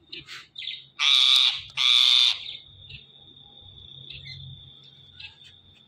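Ringneck parrot (rose-ringed parakeet) giving two loud, harsh screeching calls in quick succession, after a couple of shorter calls. A faint, steady high-pitched whistle follows for a few seconds.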